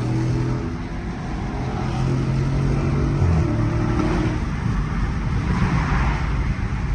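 Car engine running and being revved, its tone held at steady pitches that step up and down, followed by a rush of noise about six seconds in.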